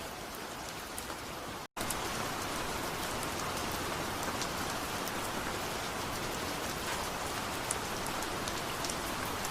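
Steady rain falling: an even hiss with scattered ticks of single drops. It cuts out completely for a split second a little under two seconds in, then resumes slightly louder.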